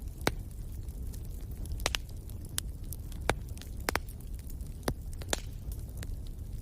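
Fireplace fire crackling: several sharp pops at uneven intervals over a steady low rumble of the flames.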